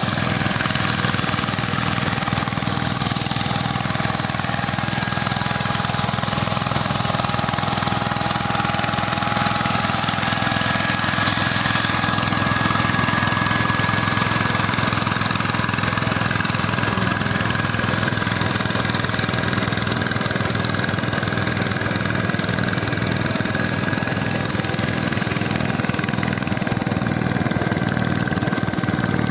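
Tractor's diesel engine running steadily, with a thin high whine held over it through the second half.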